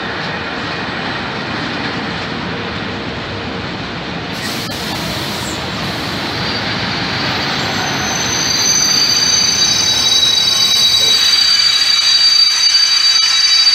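Freight train of covered hopper wagons rolling past, with a steady rumble from the wheels on the rails. About eight seconds in, a high, steady squeal from the passing wagons sets in and grows louder, while the low rumble thins.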